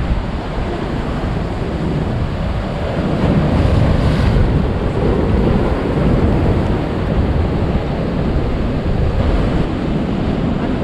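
Heavy ocean surf at high tide, waves breaking and washing far up the beach, a steady rushing wash that swells about three seconds in. Wind buffets the microphone.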